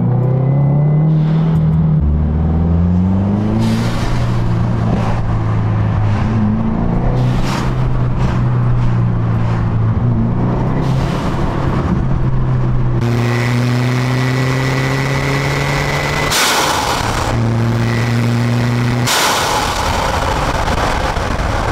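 2022 Subaru WRX's turbocharged FA24 flat-four breathing through a Perrin cold air intake, heard from inside the cabin: the engine note rises through the gears and drops at each shift, then holds steady. Over the last several seconds a thin high turbo whistle and loud rushes of intake air come in on throttle.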